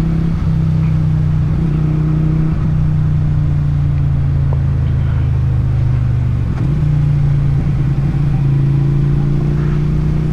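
Motorcycle engine and exhaust running steadily while riding, heard from the rider's seat. The engine note wobbles briefly about two-thirds of the way through, then settles and rises slightly.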